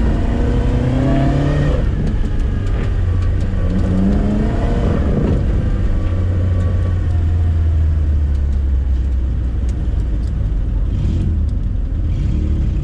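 Moskvich-408's four-cylinder engine heard from inside the cabin, running at low road speed with a steady low drone. Its pitch rises and falls twice as the throttle is worked.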